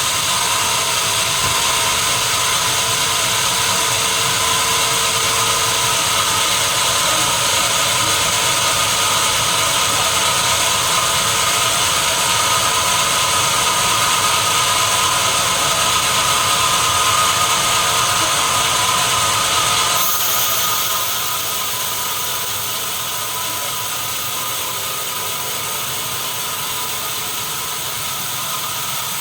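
Sawmill machinery running steadily: a loud, even mechanical noise with a constant high whine. About two-thirds of the way through it drops a little in level and a sharper high hiss comes in.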